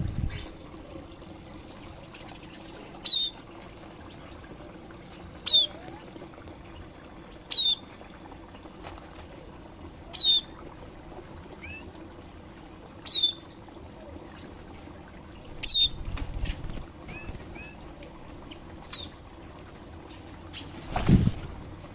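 A small bird gives a short, sharp call falling in pitch, repeated seven times, about every two to three seconds, over a steady trickle of water. Near the end comes a brief rushing burst, like wings flapping.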